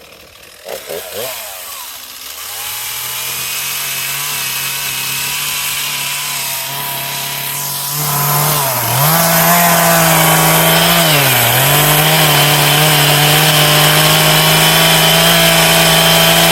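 Two-stroke chainsaw starting up about a second or two in and idling, then revved to full throttle about eight seconds in, with two brief dips in pitch, to trim down a high corner of a timber base.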